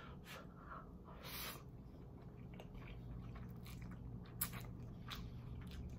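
Close-miked chewing of chewy ramen noodles, soft and wet, with a short hiss-like swell about a second in and a couple of sharp mouth clicks later on.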